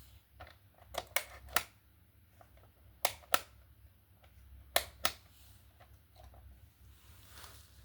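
A series of sharp clicks and taps from small hard parts being handled, the loudest coming in three quick pairs about a third of a second apart.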